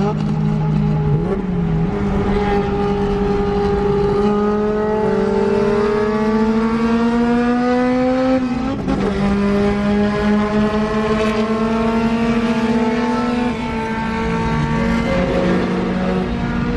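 Boosted GSR's engine on 6 psi heard from inside the cabin under hard acceleration, its pitch climbing steadily through one gear. It dips sharply at a gear change about eight and a half seconds in, climbs again through the next gear, and holds fairly level over the last few seconds, with road noise underneath.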